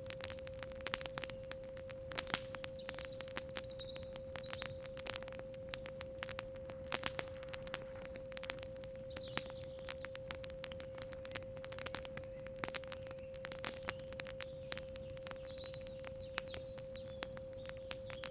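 Campfire crackling, with irregular sharp pops of burning wood, over a steady 528 Hz pure tone. A few faint bird chirps come through now and then.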